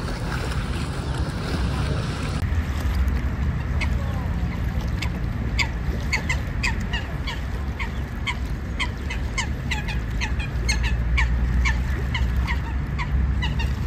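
Birds calling again and again, many short sharp calls that drop in pitch, over a steady low rumble.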